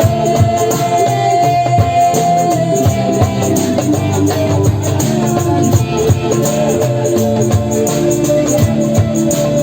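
Live band music: sustained pitched instrument notes over a steady beat, with shaken percussion like a rattle or tambourine.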